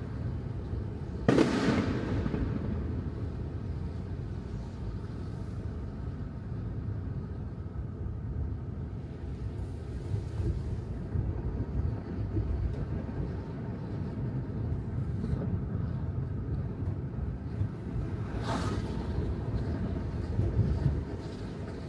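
Steady low rumble of tyre and road noise from a Tesla Model 3 driving on wet city streets, with no engine sound. A sharp bang sounds about a second in and another near the end.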